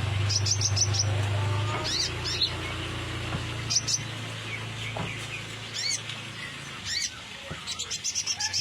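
Brown-throated sunbird (kolibri ninja) calling: short, sharp high chirps in small clusters, closing in a fast run of chirps near the end. A low steady hum lies underneath, fading after about two seconds.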